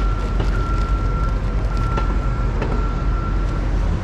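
City street traffic noise: a steady low rumble, with a thin steady high tone that stops about three and a half seconds in, and a few faint clicks.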